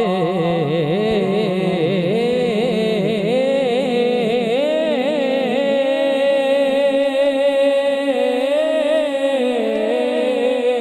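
A singer drawing out a long wordless melismatic vocal line in a devotional Punjabi sung poem, the pitch bending and wavering, then settling on a long held note about halfway through before moving on again.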